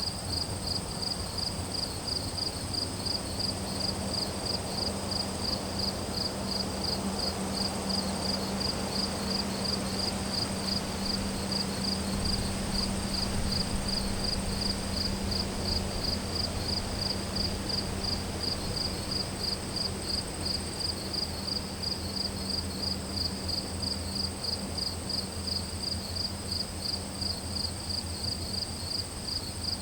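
Crickets chirping in a steady, even rhythm of about two to three chirps a second, over a continuous high-pitched insect trill. A faint low rumble runs underneath, swelling through the middle and fading near the end.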